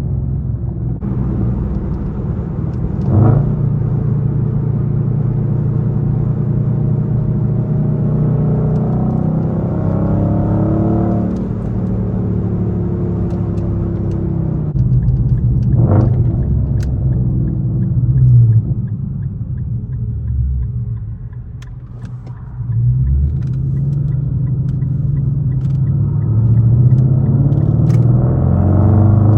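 Straight-piped Infiniti M56's 5.6-litre V8 exhaust while driving, a deep rumble that rises and falls in pitch with engine speed. It drops off for a moment about two-thirds of the way through, then climbs again as the car accelerates near the end. Two short sharp cracks come about three seconds in and again about sixteen seconds in.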